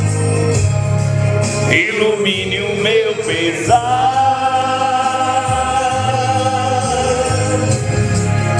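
Devotional song to Saint Sara sung over a steady instrumental accompaniment. The voice wavers through a phrase, then holds one long note from about four seconds in almost to the end.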